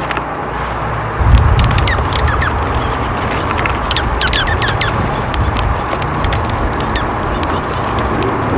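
Birds calling in short, high chirps over a steady hiss. A low rumble comes in about a second in.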